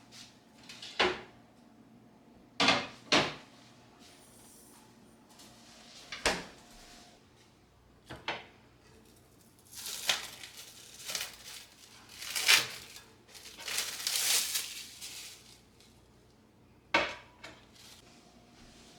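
Dishes and utensils clinking and knocking in a kitchen: several separate sharp clinks, then a longer stretch of scraping and clattering around the middle, and a final clink near the end.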